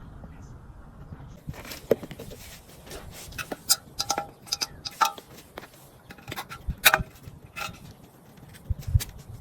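Hard objects, metal parts or tools by their ringing, clinking and knocking against each other and a work surface while being handled. It begins about a second and a half in as an irregular run of sharp taps, several with a brief metallic ring.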